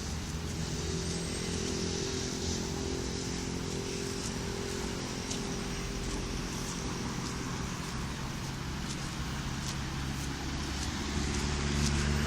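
A motor vehicle's engine running steadily with a low hum, getting a little louder near the end.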